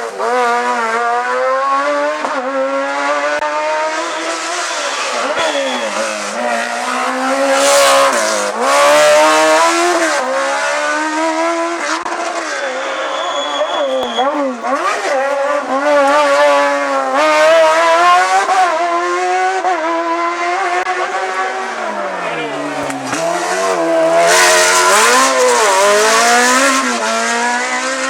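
Hillclimb race car engine at full throttle, its pitch climbing through each gear and dropping on shifts and braking, over and over.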